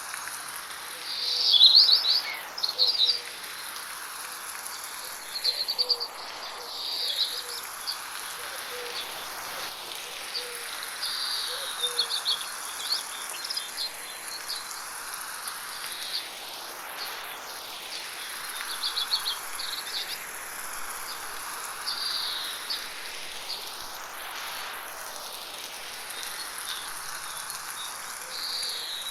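Birds singing short, rapid chirping phrases every few seconds, loudest about two seconds in, over the steady hiss of light rain in a forest. The whole scene slowly swirls from side to side with 8D panning.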